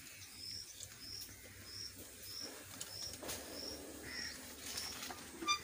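A small bird repeating a short, high call note at an even pace, about two notes a second.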